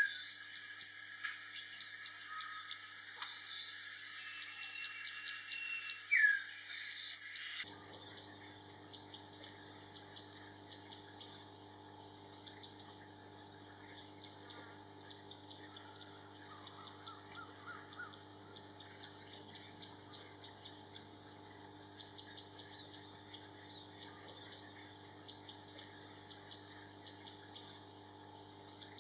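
Wild birds calling with a hum of insects. There is a change about eight seconds in: first a long steady whistle and a sharply falling note over loud high buzzing, then a string of short rising chirps repeated roughly once a second.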